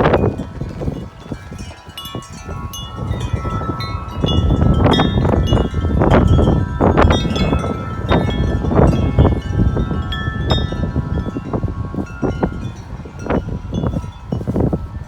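Several metal wind chimes ringing hard and continuously in strong gusting wind, many tones overlapping. Wind gusts buffet the microphone with a low rumble, heaviest through the middle.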